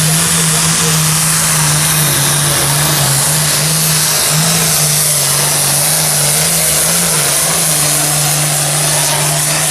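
Antique farm tractor engine running steadily under load, pulling a weight sled down the track, its pitch wavering only slightly.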